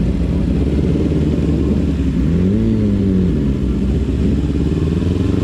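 Motorcycle engine running steadily under way, its revs rising and then falling once about two to three seconds in.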